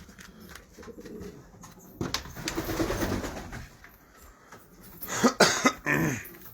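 Domestic pigeons cooing, loudest about five seconds in.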